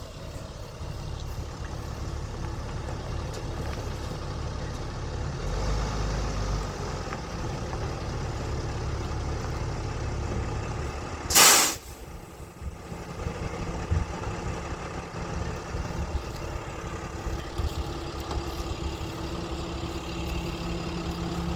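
A truck engine running with a low, steady rumble as it pulls in. About halfway through comes a short, loud hiss of air, as an air brake lets off. After the hiss the engine settles into a steady idle hum.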